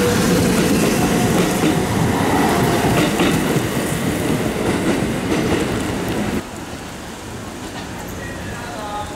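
Kintetsu limited express train running close past, wheels clattering over the rail joints. About six seconds in the sound cuts abruptly to quieter steady rain, with a faint squeal near the end.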